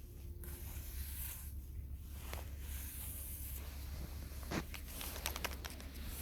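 Close rustling and scraping handling noises, with a quick run of sharp little clicks about five seconds in, over a steady low rumble.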